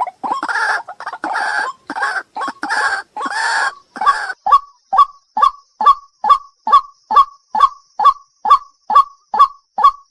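White-breasted waterhen calling: harsh, rasping croaks for the first few seconds, then a long series of loud, evenly repeated single notes, a little over two a second.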